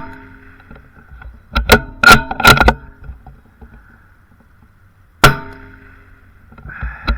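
A rimfire rifle fires a single shot about five seconds in. Between shots there is a quick run of metallic clicks from the rifle's action being worked to reload, about two seconds in and again near the end.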